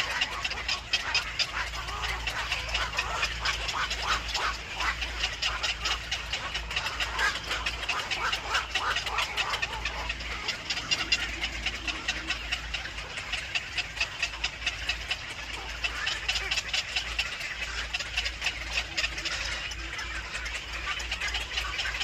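Nestling birds calling in a rapid, continuous stream of short chirps, the sound of chicks begging at the nest, over a steady low hum.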